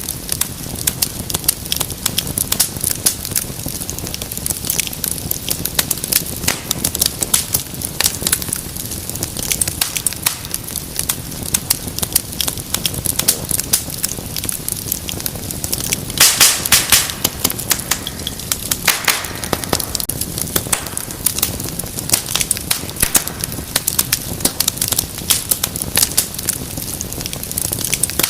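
Wood fire crackling steadily with dense, irregular pops and snaps, and a louder flurry of popping a little over halfway through.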